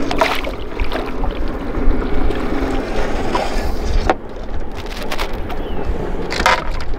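Wind buffeting the microphone aboard a small fishing boat, a steady low rumble, with three sudden short sounds: just after the start, about four seconds in, and near the end.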